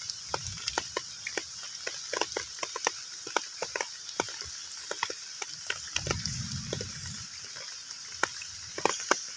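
Heavy rain falling on a pond: a steady hiss with many separate drops plinking irregularly on the water surface, and a low rumble about six seconds in.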